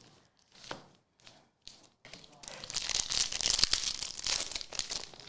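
A few brief handling rustles, then from about two seconds in a couple of seconds of tearing and crinkling: a foil trading-card pack wrapper being torn open.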